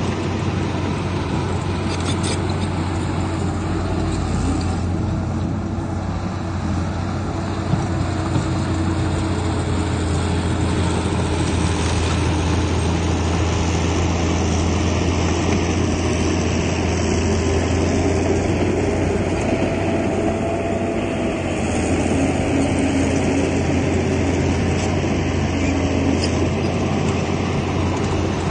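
Heavy diesel engines of earthmoving machinery running steadily: a deep, constant drone with slight rises and falls in pitch and level.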